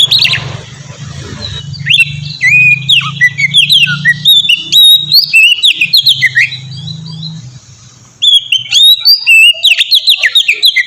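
Oriental magpie-robin singing a loud, varied song of quick whistled notes and slurs, in phrases with a short break near the start and another about eight seconds in.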